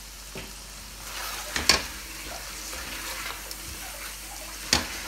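Lamb karahi sizzling in oil in a stainless steel pan as it is fried down after its cooking water has dried off. A silicone spatula stirs and scrapes through it from about a second in, with two sharp knocks against the pan.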